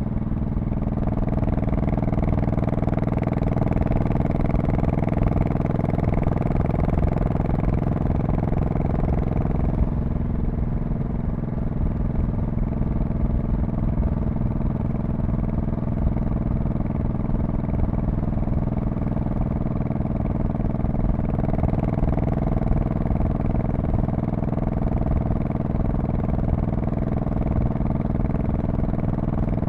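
The V-twin engine and exhaust of a 2002 Honda Shadow Spirit VT1100C running steadily on the move. The engine note shifts about ten seconds in and again a little after twenty seconds.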